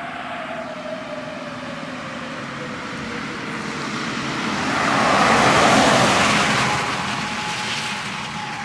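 Fire truck siren wailing, its pitch sliding slowly down and rising again near the end, while a vehicle passes close. The passing vehicle's rushing noise swells to its loudest about five to six seconds in and then fades.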